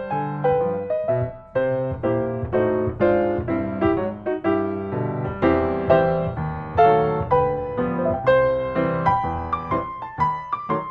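Background piano music: a gentle melody of single notes over chords, each note struck and left to fade.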